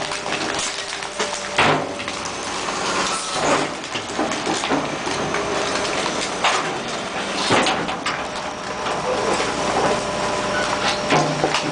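A 2003 International garbage truck with a Labrie sideloader body running steadily, with about five sharp bangs and knocks of trash and cans going into the hopper.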